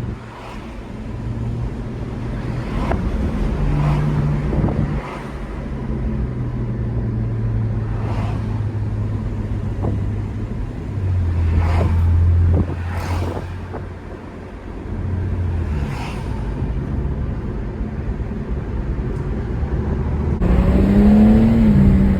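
A car being driven, with a steady low drone that shifts in pitch as it goes and a few short knocks. About twenty seconds in, the sound changes and a tone rises and falls.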